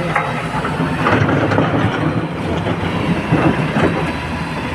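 Excavator's diesel engine running steadily under load, with irregular metallic clattering and knocking over it as it works.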